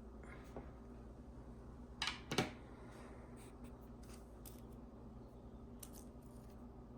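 Handling noises from the glasses and their packaging: scattered light clicks and taps, with two louder clicks or scrapes about two seconds in, over a steady low hum.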